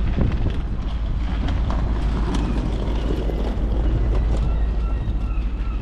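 Wind rumbling on a phone microphone over the steady running of a passenger train standing at the platform. A faint steady whine comes in about four seconds in.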